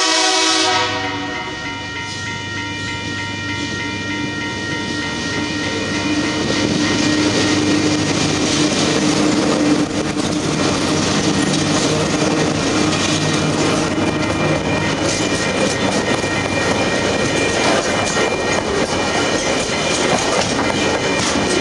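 TasRail TR-class diesel-electric locomotives sound their horn at the start, then pass close with their engines running. They are followed by loaded container wagons whose wheels clack steadily over the rail joints. The level-crossing bells ring throughout.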